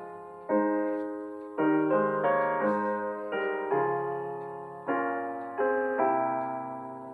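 Slow, gentle piano or electric-piano chords, each struck and left to fade, about one every second.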